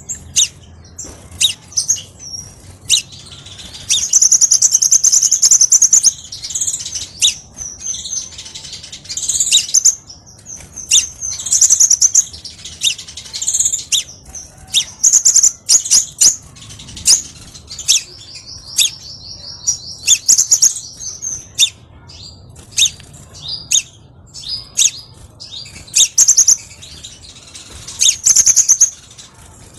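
Crimson sunbird singing: a run of sharp, high-pitched chips and twitters, broken by longer, fast trills about four seconds in and again around eighteen seconds.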